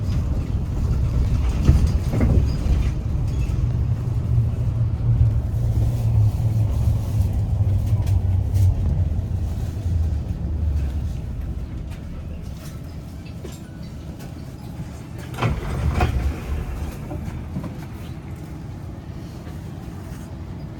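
Low rumble of a vehicle in motion, heavier through the first half and easing off after about ten seconds. A brief higher sound cuts in twice, near the start and about two-thirds of the way through.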